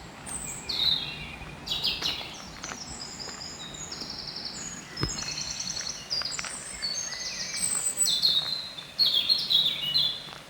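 Songbirds singing: a string of high, quick song phrases and trills, one after another, loudest near the start and again near the end.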